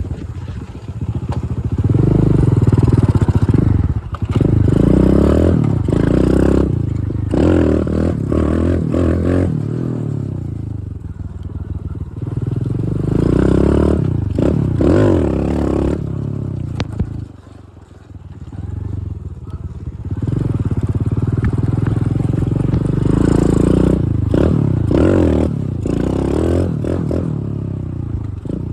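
Dirt bike engine under way, its pitch repeatedly rising and falling as the throttle opens and closes, with scattered knocks and rattles. The engine drops back briefly about two-thirds of the way through before pulling hard again.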